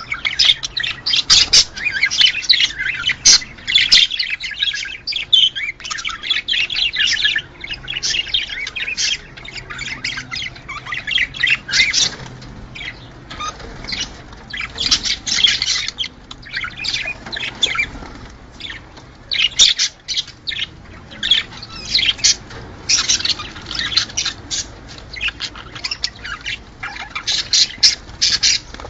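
A flock of budgerigars chattering: many overlapping chirps, warbles and squawks with no pause.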